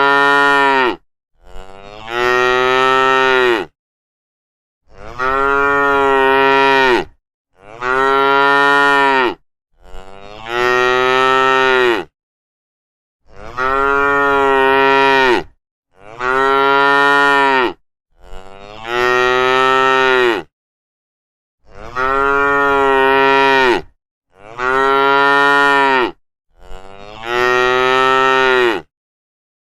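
Cattle mooing: about eleven loud, drawn-out moos, each about two seconds long, following one another with short gaps of dead silence between them.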